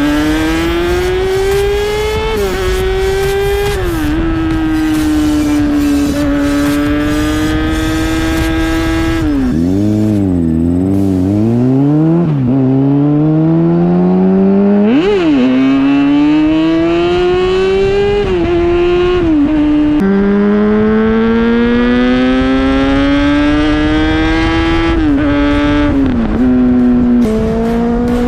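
Inline-four sport bike engine accelerating hard through the gears, its pitch climbing and then dropping back at each upshift. About a third of the way in it falls to low revs with a few quick throttle blips on the downshifts, then pulls up through the gears again.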